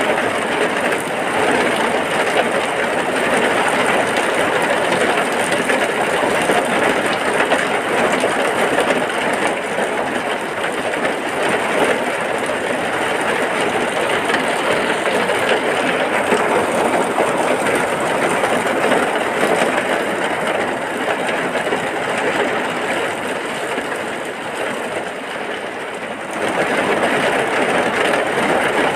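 Heavy rain falling steadily, a dense even hiss that eases slightly for a couple of seconds near the end, then comes back at full strength.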